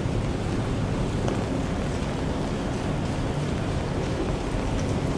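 Steady hiss of rain with a low rumble underneath and a few faint drip ticks.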